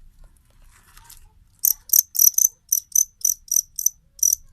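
Male jangkrik kalung (sungon) field cricket chirping: a run of about ten short, high-pitched chirps, roughly four a second, starting nearly two seconds in, with a faint rustle before them.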